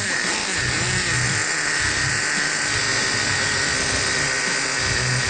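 Traxxas Revo's small nitro engine being started and spun up, a steady high-pitched motor whine.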